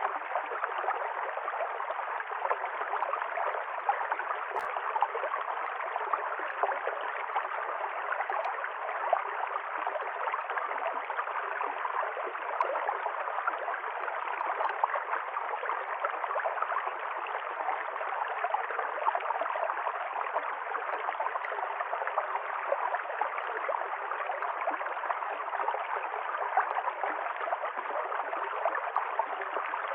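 Stream water running and gurgling steadily over rocks.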